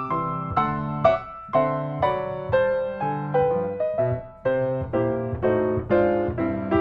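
Background piano music: a gentle melody over chords, with a new note or chord about every half second.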